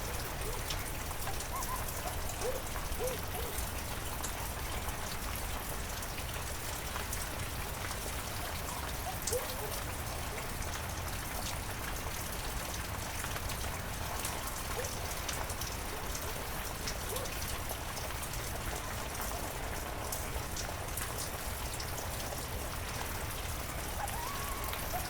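Steady heavy rain falling in a forest, with many close drops landing as sharp ticks. A few faint short rising calls come through the rain now and then.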